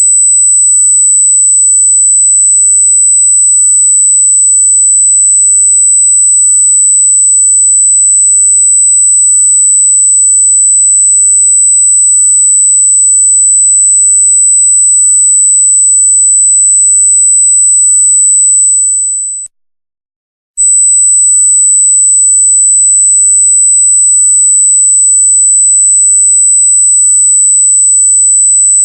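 A loud, steady, very high-pitched electronic tone on a single pure pitch. It cuts out for about a second about two-thirds of the way through, then resumes unchanged.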